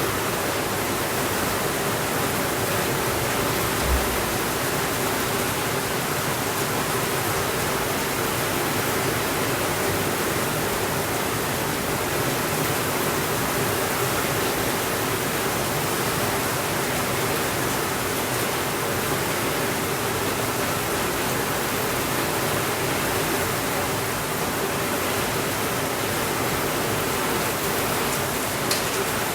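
Steady, even rainfall, a constant hiss of rain with no thunder. A single dull low thump about four seconds in and a faint click near the end.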